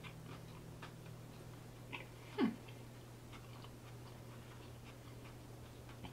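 Soft, wet chewing and mouth clicks of a person eating, with one short squeak that falls steeply in pitch about two and a half seconds in.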